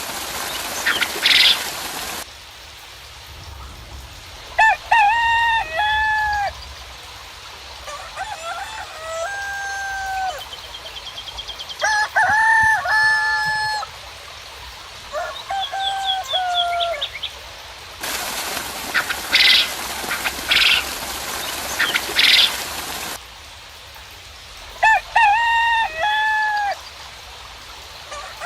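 Roosters crowing again and again, with small birds chirping high and thin. A patch of steady rain-like hiss with loud pulses of calling comes at the start and again about two-thirds through.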